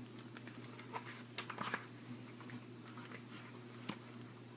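Pages of a comic book being leafed through: soft papery rustles and ticks, a cluster of them about a second and a half in and one sharp tick near the end. A steady low electrical hum runs underneath.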